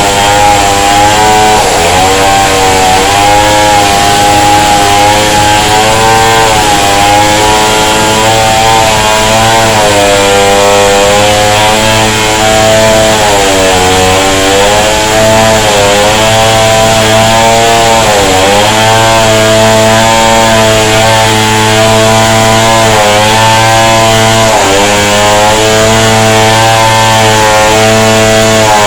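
Two-stroke chainsaw running at high revs while cutting into a wall, its engine note dipping briefly several times under load before picking up again.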